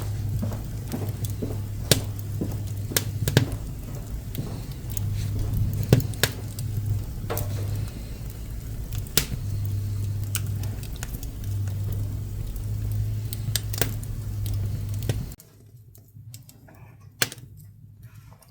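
Pine and woodworking offcuts burning in a wood stove, crackling and popping with irregular sharp snaps over a low steady hum. About fifteen seconds in the hum and most of the sound drop away suddenly, leaving only faint, sparse crackles.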